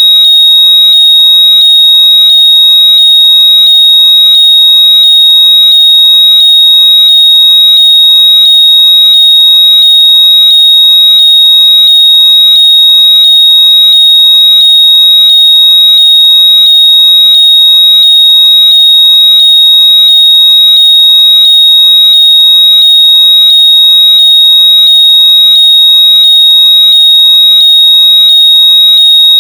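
Electronically generated high-pitched tone, very loud and steady, held at one pitch without a break. It is played through earbuds at full volume so they can be found by ear.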